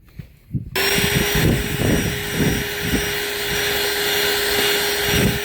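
An electric vacuum cleaner switches on about a second in and runs steadily with a constant whine. There are a few low knocks and bumps over its first couple of seconds.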